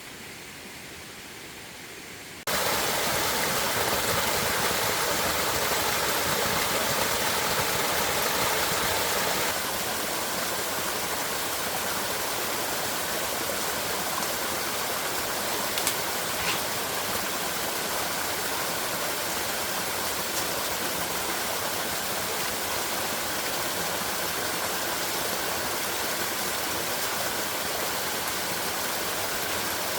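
Steady rushing of running water. It jumps louder about two and a half seconds in, eases a little about ten seconds in, and has a few faint clicks near the middle.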